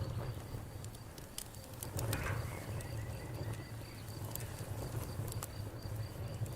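Campfire burning with a low rumble and scattered sharp crackles and pops of burning wood. A cricket chirps steadily in the background as a faint, high, pulsing tone.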